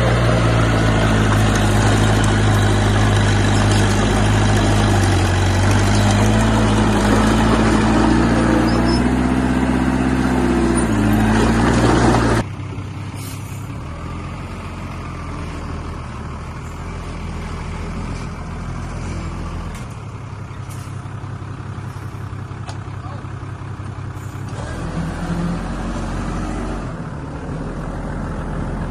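Diesel engine of heavy earthmoving machinery running under load, its pitch rising and falling. About twelve seconds in the sound drops abruptly to a quieter engine that runs on steadily.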